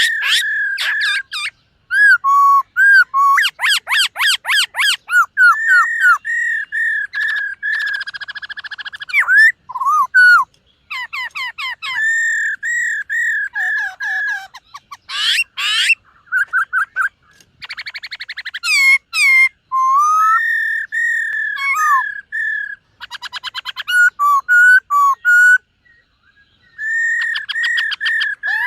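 Black-throated laughingthrush singing a long, varied song: clear whistled notes repeated in quick series, broken up by fast rattling trills, with a few short pauses.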